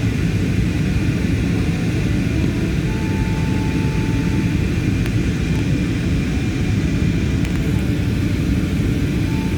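Steady cabin noise of an airliner in flight: engine and airflow noise, a dense low rumble. A faint steady tone sounds for about a second and a half starting about three seconds in.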